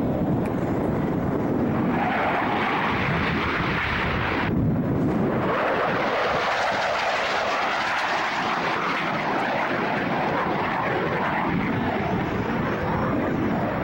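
Fixed-wing airplane flying overhead: steady, loud engine noise, briefly cut off in its upper range about four and a half seconds in.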